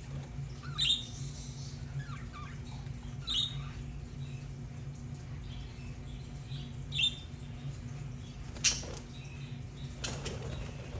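Budgerigars fluttering their wings, with three short high chirps spread through and a sharp click near the end, over a steady low hum.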